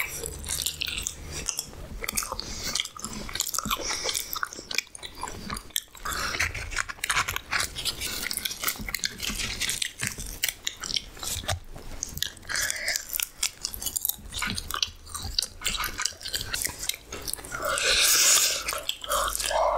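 Close-miked eating of halwa puri (fried puri bread with chickpea gravy): steady chewing and biting, full of small wet mouth clicks. A louder, noisier burst comes about two seconds before the end.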